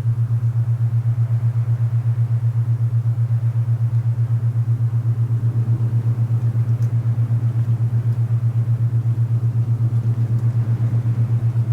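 Alpha binaural-beat tone: a steady low hum that pulses rapidly and evenly in loudness, over a soft rush of wind.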